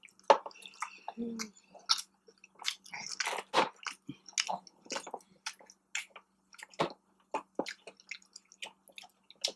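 Close-miked chewing of boneless chicken wings: a steady run of short, wet smacks and clicks from mouths eating.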